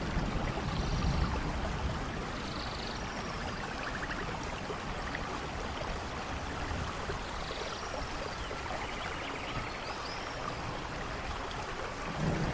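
Steady rain falling in a rainforest thunderstorm, with faint short chirps and trills of small animals above it. A low rumble of thunder dies away in the first couple of seconds, and another begins to build right at the end.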